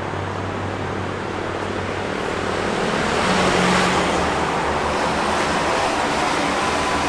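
A motor vehicle passing: a low engine hum under a rushing noise that swells to its loudest about halfway through, then eases off.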